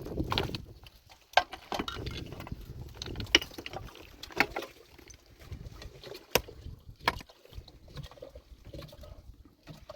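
Irregular sharp knocks and clinks of stone being struck or handled, five or six separate hits over a low rumbling background.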